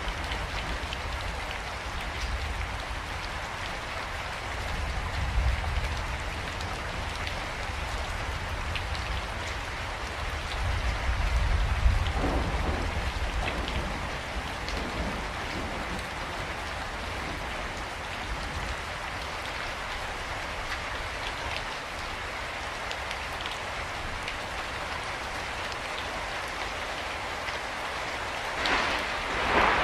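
Steady rain falling, with a low rumble swelling twice along the way. Loud thunder breaks in near the end.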